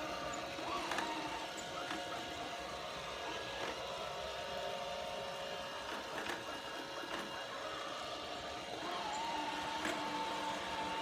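Amtidy A320 robot vacuum cleaner running: a steady whirring motor whine with scattered light clicks and knocks, and a further motor tone that comes in about nine seconds in.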